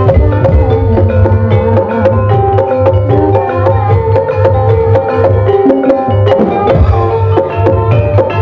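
Live gamelan music for ebeg dance: metallophones play a busy interlocking melody over a sustained low tone and a steady stream of hand-drum strokes.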